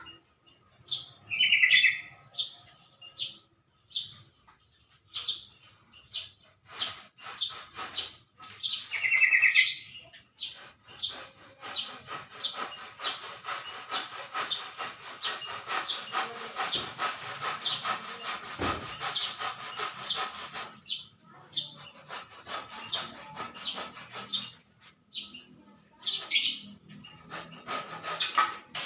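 Small birds chirping: a string of short, sharp high chirps with two brief trills near the start, packing into rapid chirping through the middle and thinning out near the end.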